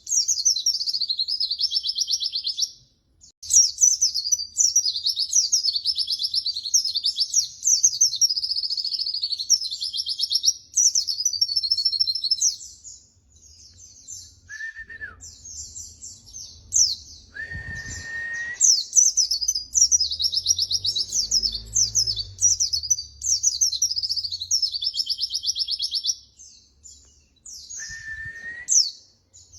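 White-eye (pleci) singing long runs of fast, high twittering song, broken by short pauses. A few brief, steady, lower whistled notes come in the gaps.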